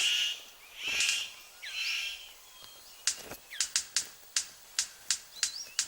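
Bird of paradise calls: three harsh rasping calls about a second apart, then a quick run of sharp clicks broken by a few short whistled notes.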